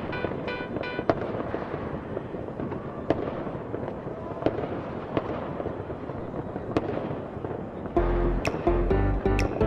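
Fireworks going off: a continuous dense crackle with scattered sharp bangs. Music with deep bass notes comes in about eight seconds in.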